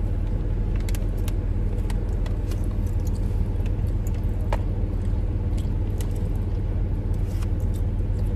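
Steady low rumble of a car heard from inside the cabin, with scattered light clicks and rattles.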